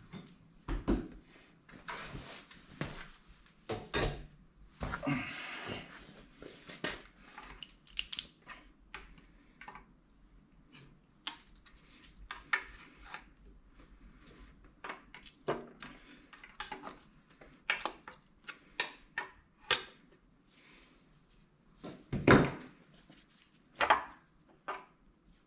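Irregular clinks, taps and knocks of hand tools and metal engine parts being handled during an engine strip-down, with a brief rustle about five seconds in and a couple of heavier knocks near the end.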